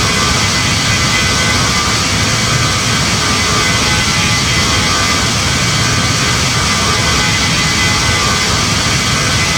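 Steady in-flight cabin noise of a Boeing 737 MAX 9: the constant drone of its CFM LEAP-1B jet engines and rushing air, with several faint steady whines running through it.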